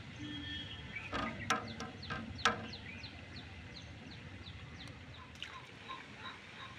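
Birds calling: a quick run of short, high, falling chirps repeats steadily, with a few louder, lower calls between about one and two and a half seconds in.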